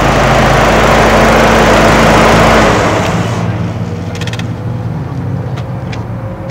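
Mitsubishi Lancer Evolution's turbocharged 2.0-litre four-cylinder engine, fitted with an open cone air filter, running loudly at raised revs with a strong rushing sound, then dropping to a quieter, steady idle about three seconds in.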